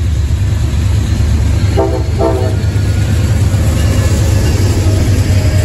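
Amtrak passenger train's locomotive horn giving two short blasts about two seconds in, over the steady low rumble of the diesel locomotives passing close by.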